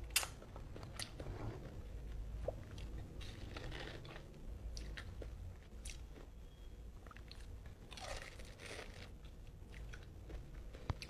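A person chewing mango close to the microphone: soft, wet crunching as slices are bitten and chewed, with a few sharp clicks.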